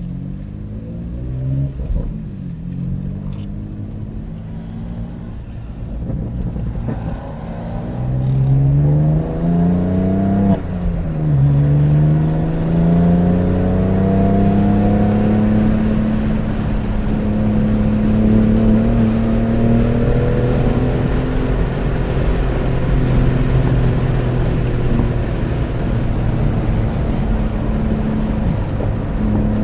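BMW F80 M3 Competition's twin-turbo inline-six running at low revs, then accelerating from about eight seconds in, with a gear change near ten seconds where the pitch drops sharply. It then climbs again and holds at fairly steady, higher revs.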